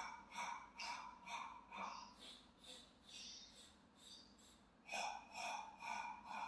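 A man's short, forceful breaths in a quick even rhythm, about two or three a second, pausing briefly a little past halfway and then starting again: percussive Pilates breathing for the Hundred, voiced so that the belly pulls in.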